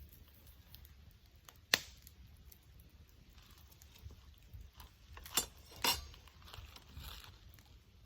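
Wood fire crackling softly, with three sharp pops: one about two seconds in and two close together around the middle.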